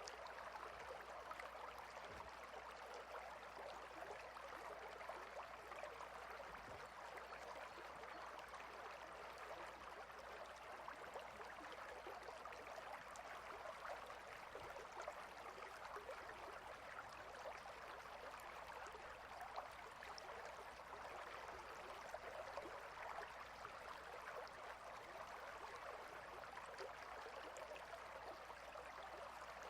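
Clear river flowing between rocks: a steady, even rush of water with no let-up, and a faint low hum beneath it.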